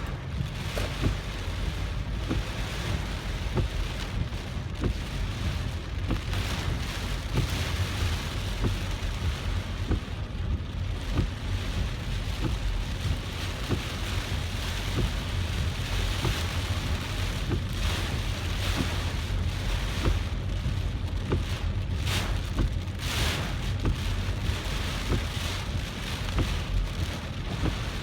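Heavy typhoon rain beating on a moving car: a dense patter of drops hitting over a steady low rumble of the car on the wet road.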